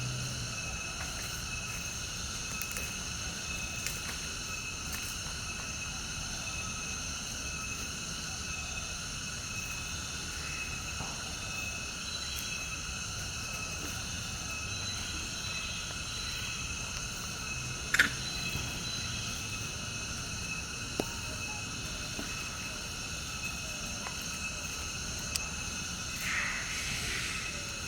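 Steady insect chorus outdoors: several high, even drones held without a break. A few sharp ticks or taps cut through it, the loudest about 18 seconds in.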